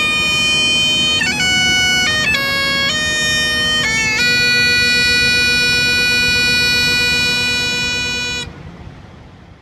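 Bagpipes playing a tune over their steady drones, the melody settling on one long held note that cuts off suddenly about eight and a half seconds in.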